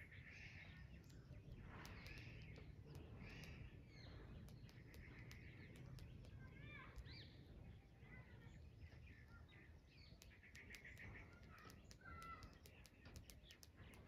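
Faint mix of wild birds chirping and calling, one after another, with many short sharp chips and a few warbled trills, over a low steady background rumble.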